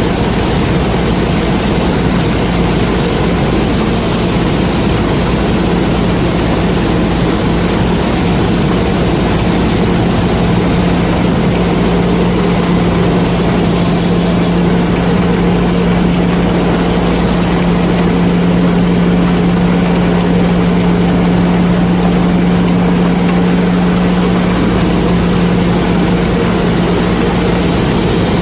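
Combine harvester running steadily under load while harvesting corn: a continuous engine drone with the hiss of the working machinery, unchanging throughout.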